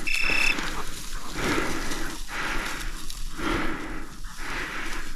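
A person breathing hard in a steady rhythm, about one breath a second, while walking. A short high beep sounds right at the start.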